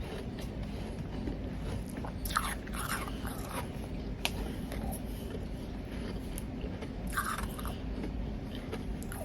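Close-miked biting and chewing of powdery ice: a cluster of crunches about two to three seconds in, a sharp crack near the middle and another crunch about seven seconds in, over a steady low hum.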